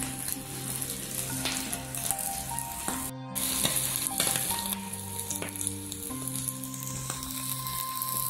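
Small river prawns frying in hot oil in a wok, sizzling steadily with some stirring, with a brief break about three seconds in. Background music with held notes plays underneath.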